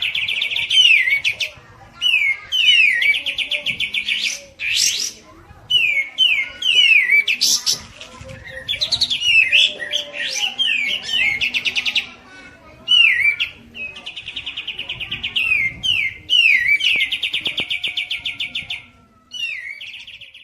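Loud bulbul song, from the kapas tembak and cucak jenggot: repeated phrases of quick, curving whistled notes, each running into a fast rattling trill of a second or two.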